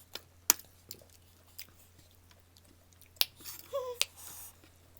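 Close-up eating sounds of a crunchy snack: a few sharp crisp bites and chewing. A short voiced sound comes about four seconds in.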